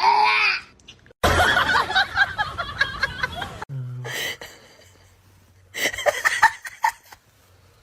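People laughing in short bursts.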